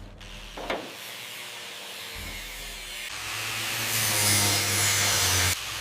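A power tool stripping rust from metal, with a short knock under a second in. Then a whirring scour builds from about two seconds in, grows louder and cuts off suddenly near the end.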